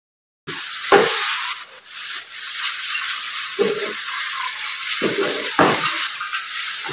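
Chopped onions and carrots sizzling in ghee in a pan, with a spatula scraping and knocking against the pan as the mixture is stirred; a sharp knock about a second in is the loudest. The sound starts abruptly about half a second in.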